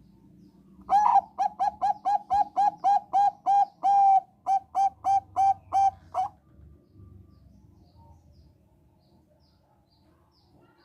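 Zebra dove (Thai 'perkutut bangkok' strain) singing a quick run of about fifteen short staccato coos, roughly three a second, with one slightly drawn-out note in the middle.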